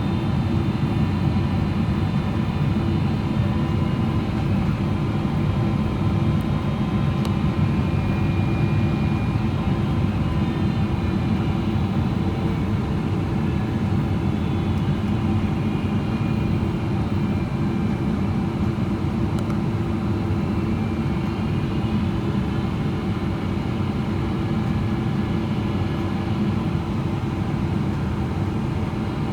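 Steady cabin noise of a Boeing 777-300ER on approach, heard inside the cabin: a constant low rumble of airflow and the GE90 engines, with a faint steady whine above it.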